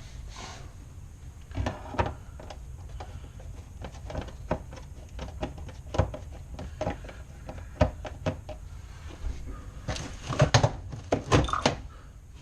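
Scattered knocks, clicks and clunks of hands working a clothes dryer's vent hose connection, with a burst of louder thumps near the end.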